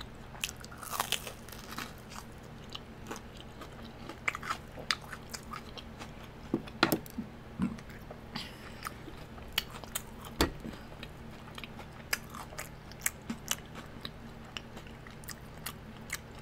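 Close-miked chewing and crunching of a crispy fried Korean corn dog: many sharp crunches and wet mouth clicks, with a few louder crunches about seven and ten seconds in.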